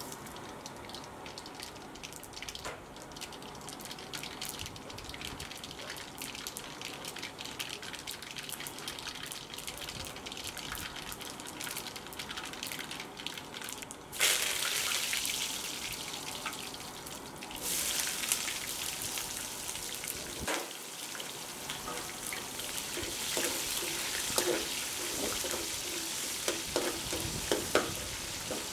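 Mustard seeds crackling and popping in hot oil in an aluminium kadai, then a sudden loud burst of sizzling about halfway through as more goes into the pan, and another a few seconds later that stays loud as sliced onions and curry leaves fry. Near the end a metal spatula knocks and scrapes against the pan as it stirs them.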